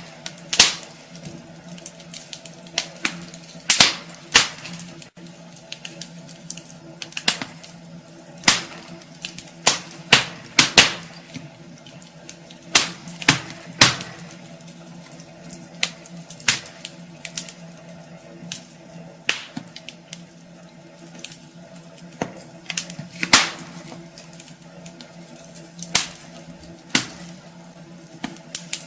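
Wood fire in a fireplace crackling, with irregular sharp pops and snaps, a few of them much louder, over a steady low hiss.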